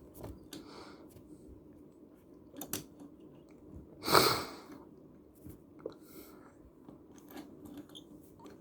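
Small toy cars being handled on a tabletop: scattered light clicks and knocks, with one louder short rustle about four seconds in.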